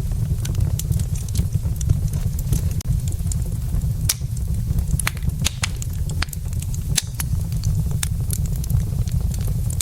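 Wood fire in a fireplace crackling: sharp pops and snaps of burning logs come at irregular moments over a steady low rumble.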